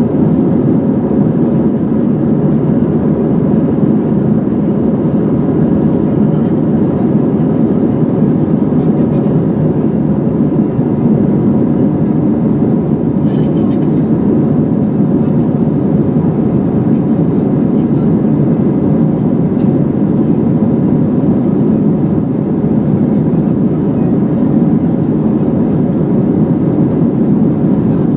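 Steady jet-engine drone and airflow noise inside the cabin of an Airbus A320-211 with CFM56-5A engines, heard from a rear window seat as the airliner flies after takeoff.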